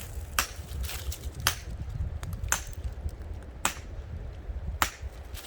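Five short, sharp knocks evenly spaced about once a second, over a low steady rumble.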